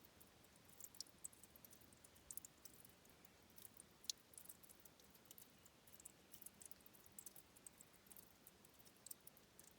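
Faint trickle of spring water at a river's source: many tiny, irregular drips and plinks over a soft steady wash, one drop a little louder about four seconds in.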